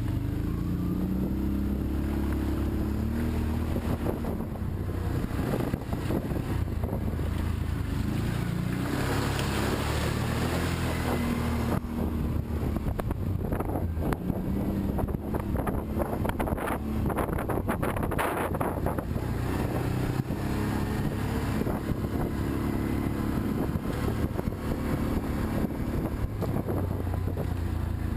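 An engine running, its pitch rising and falling, with a stretch of rattling and knocking in the middle.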